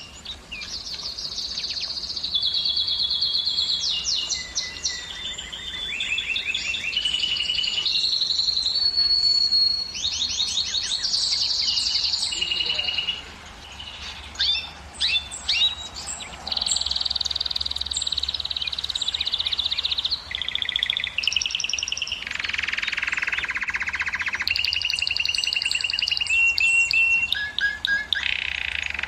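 Domestic canary singing a continuous song of rapid trills and rolls. Each trill is held for a second or a few, then jumps to a new pitch, with a brief lull near the middle.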